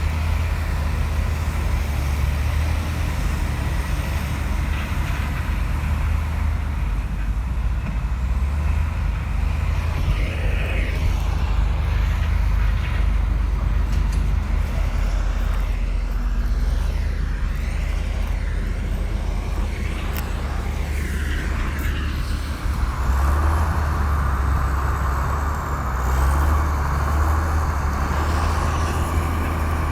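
Komatsu bulldozer's diesel engine running steadily with a deep rumble; about two-thirds of the way through, a harsher mid-pitched noise joins it.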